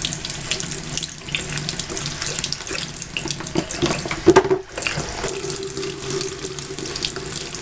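Tap water running steadily into a sink while a bath pouf is worked with soap under it; the sound drops briefly about halfway through.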